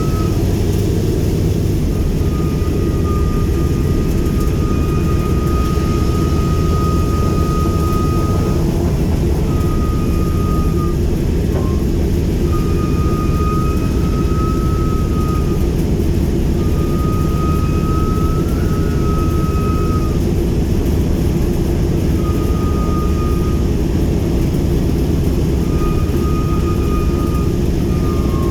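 B-17G Flying Fortress's four Wright R-1820 Cyclone nine-cylinder radial engines running steadily at low power on the ground, with a thin high tone coming and going over the engine noise every few seconds.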